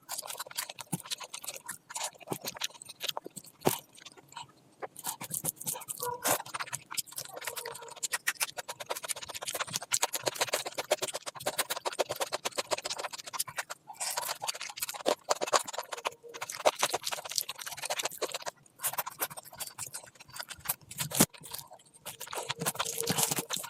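Close-miked eating sounds: chewing and wet mouth clicks in quick, uneven runs, broken by a few short pauses.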